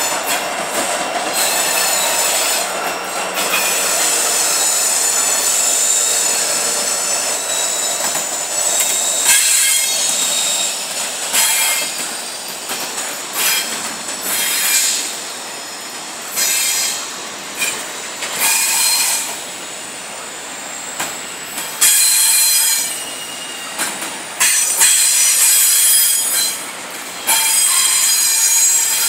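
Freight train of double-stack intermodal well cars rolling past, its steel wheels squealing against the rails in high, ringing tones that swell and fade every few seconds, over a steady rolling rumble.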